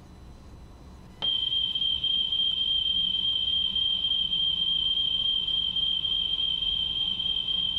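A steady, loud test tone of about 3 kHz starts abruptly about a second in and holds. It is a wow-and-flutter test cassette played back on a Sony WM-FX491 Walkman while its tape speed is being measured.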